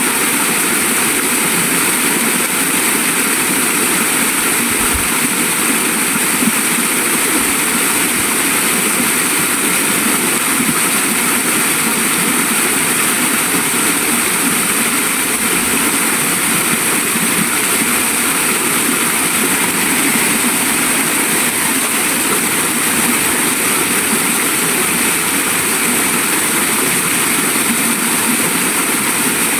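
Waterfall and stream water rushing steadily, a constant even roar of falling and flowing water.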